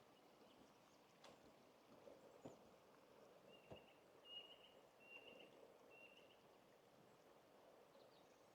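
Faint, slow footsteps on a forest path, with a small bird giving four short, high calls in quick succession midway through.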